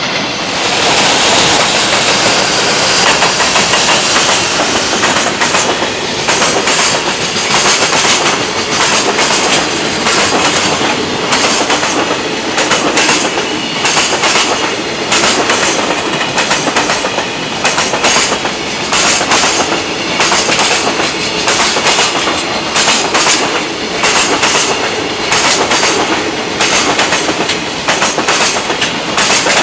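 Container freight train's wagons rolling past at speed, their wheelsets clattering over rail joints in a steady, repeating clickety-clack. A brighter high-pitched hiss from the wheels stands out for the first few seconds.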